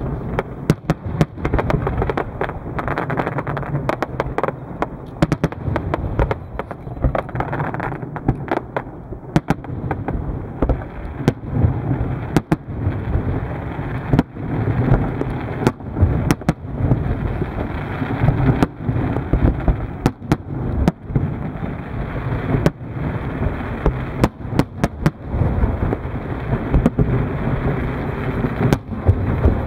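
Fireworks exploding: many sharp, irregular bangs, often several a second, over a continuous low rumble of further blasts.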